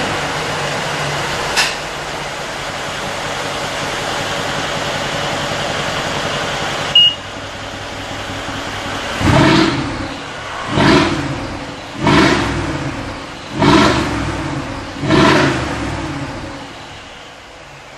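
Mercedes G63 Brabus bi-turbo V8 through its tuned exhaust, idling just after a start, then given five short throttle blips about a second and a half apart, each revving up and falling back to idle. A brief high beep sounds about seven seconds in.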